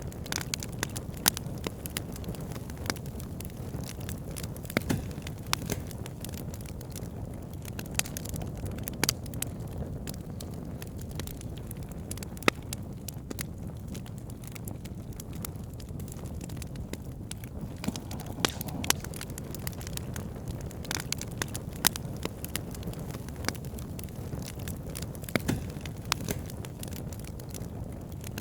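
Campfire burning with irregular sharp crackles and pops over a steady low rumble of the flames.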